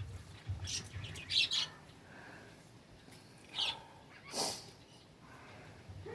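Pet bird chirping in short, high calls: a cluster of chirps in the first couple of seconds, then a few single chirps around four seconds in.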